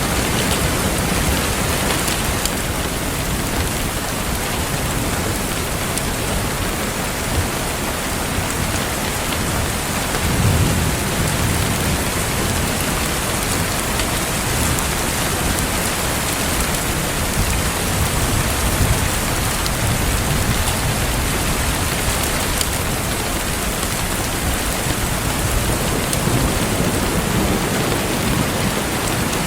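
Steady rain falling, with the occasional crackle of a wood fire in a fireplace and low rumbles about ten seconds in and again near nineteen seconds.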